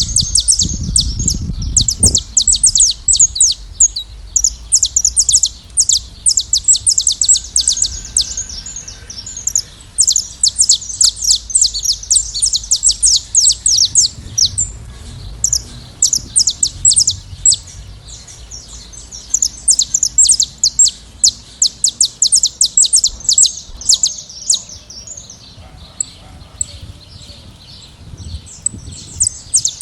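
A flock of saffron finches chirping and singing, a dense run of quick, high notes from several birds with short lulls.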